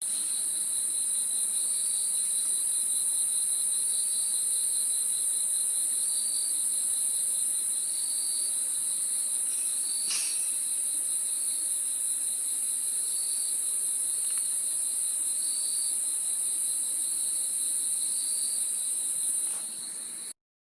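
Insects trilling steadily, like crickets at night, with a second chirp that swells about every two seconds. It begins abruptly, dips slightly near the end, then cuts off suddenly.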